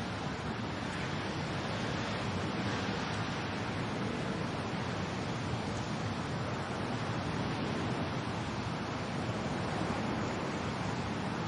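Steady rain and wind, a constant even rushing noise with no distinct drops or gusts standing out.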